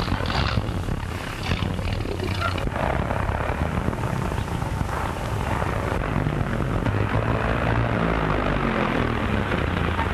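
A 1930s car engine running as the car drives along, a steady low hum. The note falls in pitch near the end as the car slows.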